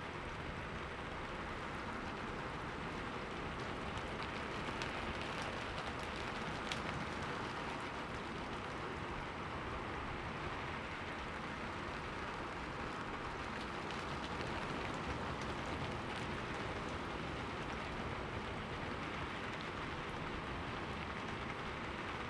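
Steady rain falling on a window, an even hiss with scattered ticks of single drops.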